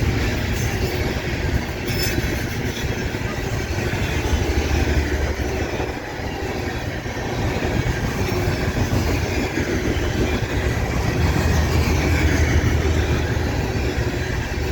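Loaded coal hopper cars of a freight train rolling steadily past, steel wheels running on the rails.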